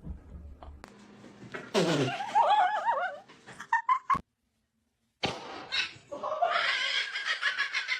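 Bouts of laughter-like vocal sound with a wavering pitch, broken by about a second of silence midway.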